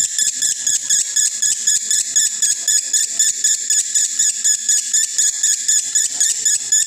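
Male lovebird in breeding condition chattering in one long unbroken run of high, shrill chirps, about six or seven a second: the nonstop 'konslet' chatter.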